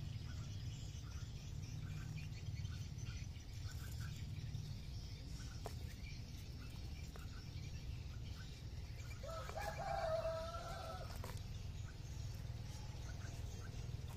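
A bird calls once for about two seconds, a wavering pitched call, over a steady low background rumble with faint short high ticks scattered throughout.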